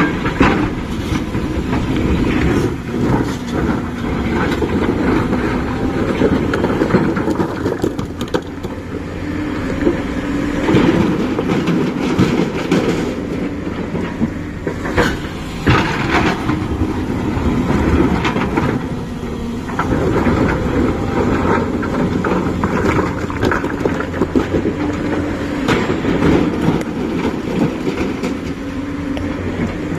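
JCB 5CX backhoe loader's diesel engine running steadily under load, with frequent clanks and rattles from the machine as it works.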